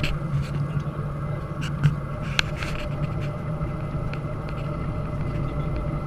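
Steady low hum of a Ryanair Boeing 737-800, its CFM56 engines and cabin air heard from inside the cabin before the takeoff roll, with a few light clicks and knocks, the sharpest about two and a half seconds in.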